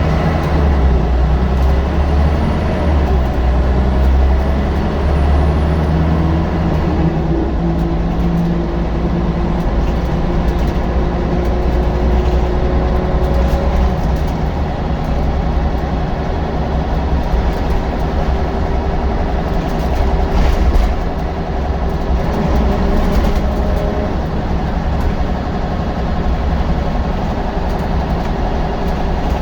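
Scania L94UB single-deck bus's diesel engine running under way, a steady low drone whose pitch rises and falls a little as the bus drives.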